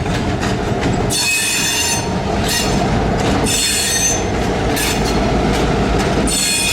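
Freight train being shoved slowly into a yard: the cars' steel wheels squeal in repeated high, ringing bursts that come and go every second or so, over a steady low rumble of the rolling cars.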